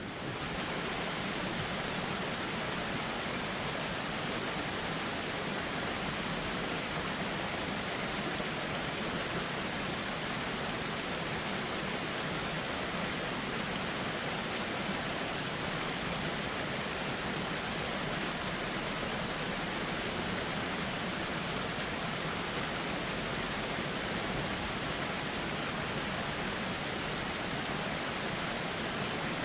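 Steady rushing of flowing river water, an even, unbroken wash of sound.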